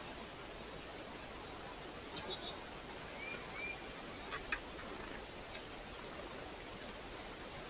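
Small birds at a bird feeder: a cluster of sharp clicks about two seconds in and two more later, with two short high call notes between them, over a steady hiss.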